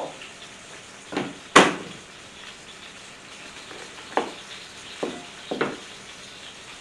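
A knife whacked down on garlic cloves on a cutting board: five sharp knocks, the loudest about a second and a half in, over the steady sizzle of chicken frying in oil.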